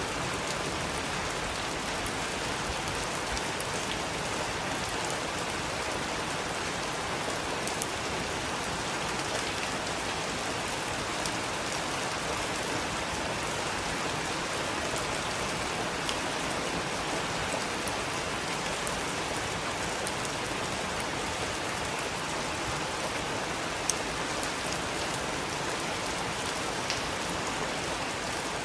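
Heavy rain falling steadily, with a few sharp drop impacts standing out now and then.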